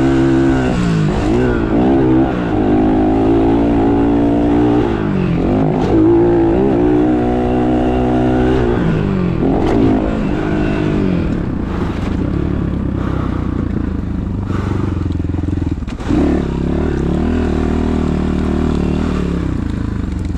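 Dirt bike engine revving up and down as it rides, its pitch rising and falling again and again in the first half, then running more evenly for the last several seconds.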